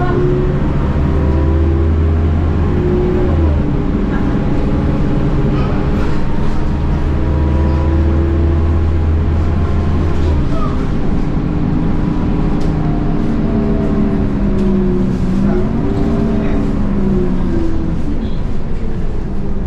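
Scania K230UB bus's DC9 five-cylinder diesel working through its ZF Ecomat 6HP502C six-speed automatic. The engine pitch rises and falls as the gearbox shifts, with the deep drone dropping away twice in the first half.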